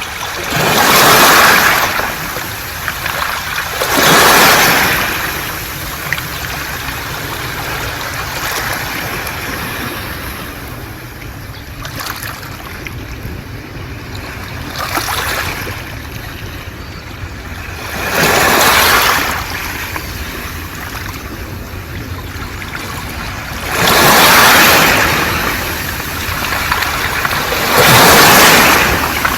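Sea waves surging up a beach of smooth round pebbles (mongdol), each one a loud rushing wash that swells and fades over about two seconds, with a steady low surf rumble in between. About six surges come in, the loudest about a second in, at about four seconds, and in the last third.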